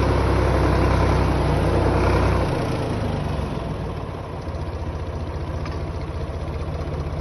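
Carraro tractor's diesel engine running loud and steady, then dropping about two and a half seconds in to a quieter, evenly pulsing idle.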